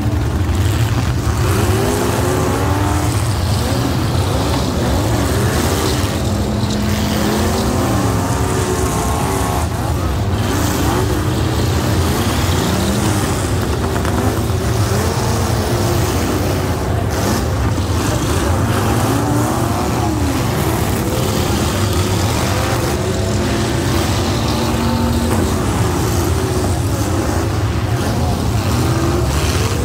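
Several demolition derby super stock car engines revving at once, their pitches rising and falling over one another above a steady low rumble.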